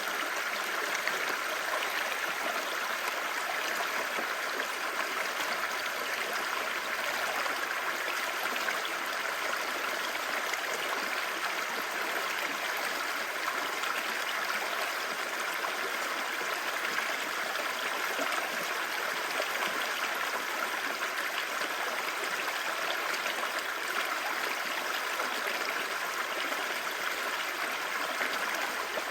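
Clear stream babbling over rocks: a steady, even rush of running water.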